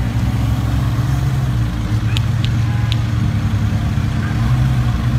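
A car engine running steadily at idle, a low even hum. Three short, sharp clicks come between about two and three seconds in.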